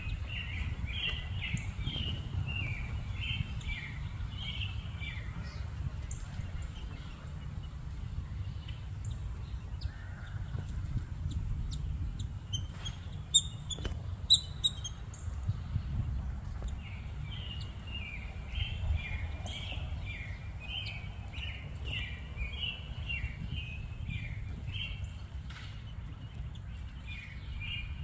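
Birds calling outdoors in quick runs of short, high chirps: one run at the start, then a long stretch through the second half. A few sharp clicks come near the middle, over a steady low outdoor rumble.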